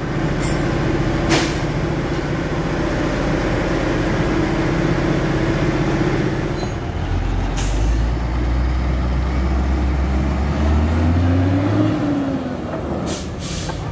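Sany concrete mixer truck's diesel engine running, its revs climbing steadily from about halfway and dropping back near the end. Short air-brake hisses come about a second in and twice near the end.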